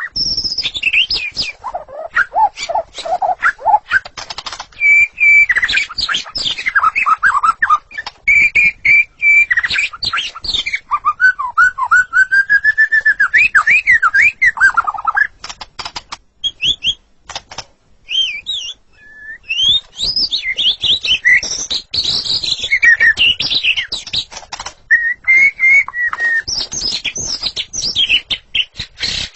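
White-rumped shama (murai batu) singing a long, varied song of loud whistled phrases that glide up and down, mixed with rapid sharp clicking notes, with a brief lull about two-thirds of the way through.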